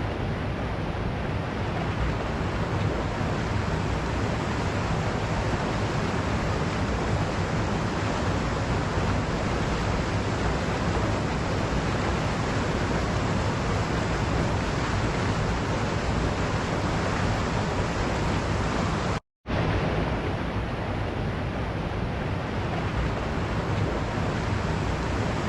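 Waterfall: a steady, unbroken rush of falling water, cutting out for a split second about three-quarters of the way through before resuming.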